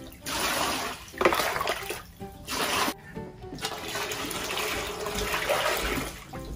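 Hot water poured from a metal pot into a plastic basin already holding water, splashing. The water comes first in short splashes, then in one steady pour of two to three seconds.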